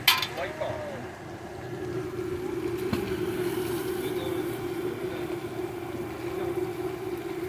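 A steady engine hum holding one pitch, with a single sharp click about three seconds in.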